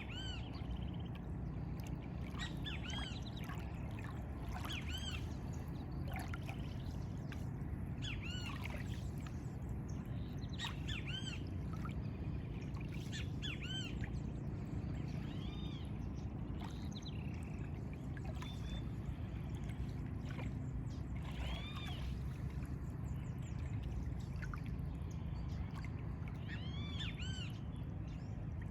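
Several songbirds chirping, with short arched notes repeated every second or two, over a steady low rumble of outdoor background sound.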